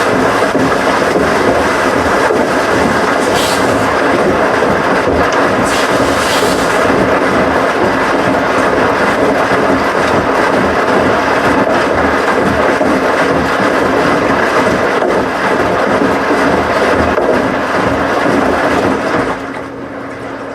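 Washing machine running with a loud, steady rumble and a held whine, which drops in level a second or so before the end.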